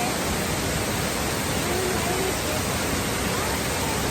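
Waterfall rushing: a steady, dense hiss of falling water.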